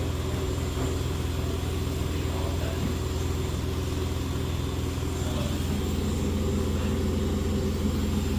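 Beko WS832425S washing machine spinning with a steady motor hum, its drum full of suds. A second hum note joins about five seconds in.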